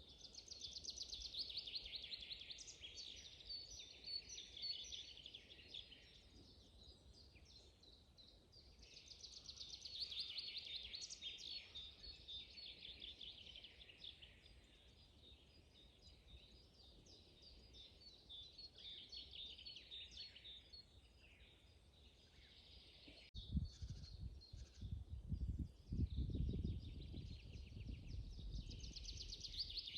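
Songbirds singing in a spring forest: fast trilled phrases come and go every few seconds. About three-quarters of the way through a click is followed by a low rumble lasting several seconds.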